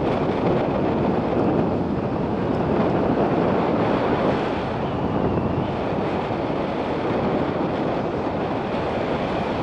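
Steady rush of wind over the microphone on a moving motorcycle, with the bike's running and road noise underneath.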